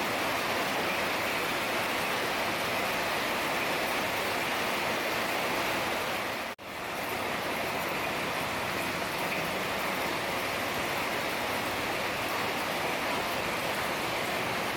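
Heavy rain falling steadily, a dense even hiss of drops. A little under halfway through it cuts out for a moment and fades back in.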